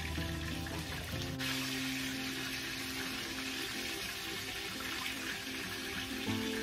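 Background music with held notes over a steady hiss of chicken sizzling in a cast iron skillet. The hiss grows brighter about a second and a half in.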